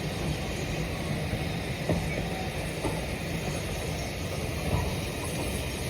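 Train running on the track: a steady rumble with a few short knocks.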